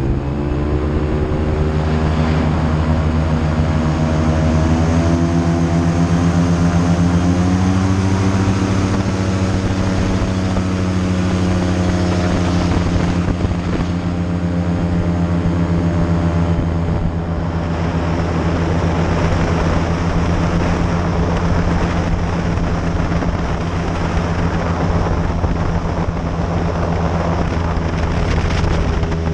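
Airboat's engine and big air propeller running under way; the engine note climbs over the first several seconds, then holds steady at speed.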